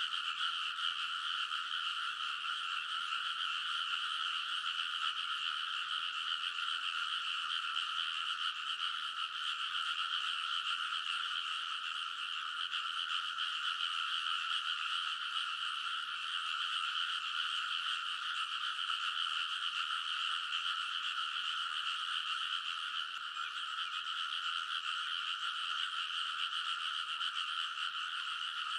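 Dense chorus of many rice-paddy frogs croaking together, overlapping into one steady, unbroken din.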